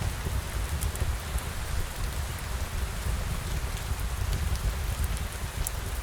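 Steady rain falling on a surface, a constant even hiss with a low rumble underneath and scattered faint high ticks throughout.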